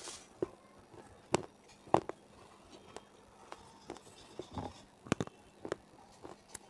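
Close-miked chewing of hard, brittle pieces: a series of sharp, irregular crunches every half second or so, the ASMR 'stone crunch'.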